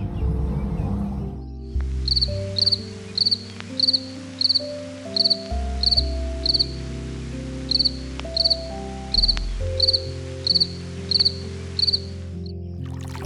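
An insect chirping in short, evenly spaced high chirps, about one and a half a second, starting about two seconds in and stopping near the end, over background music with sustained low notes.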